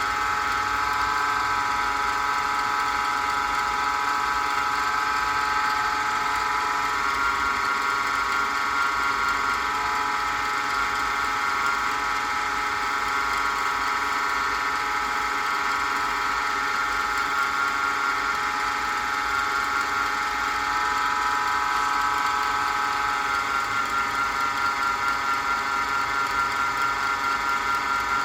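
Small wood lathe's motor running steadily while a pen blank turns, giving a constant whine.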